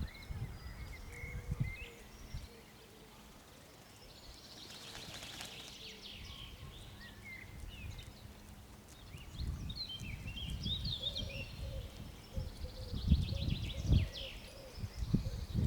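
Small songbirds chirping and trilling in short high calls throughout, with bouts of low rumble from wind on the microphone, loudest near the end.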